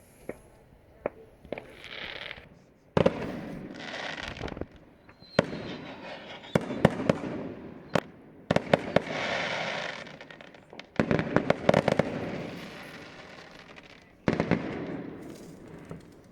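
Fireworks going off in a series of bangs, each followed by a crackle that dies away over a second or two, with smaller pops in between.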